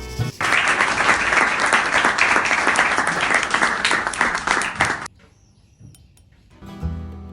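Stick-welding arc on 7018 rod, a steady dense crackle that starts about half a second in and cuts off suddenly about two seconds before the end.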